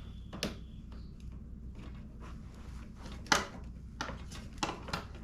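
A handful of short sharp clicks and knocks from hands and a tool working a part loose on a sport motorcycle's bodywork, the loudest a little past halfway, over a steady low hum.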